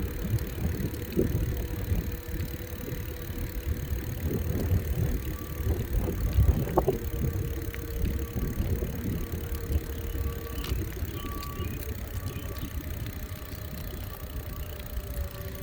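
Riding a bicycle: wind buffeting the microphone over a steady low rumble from the ride, with a few light clicks and rattles.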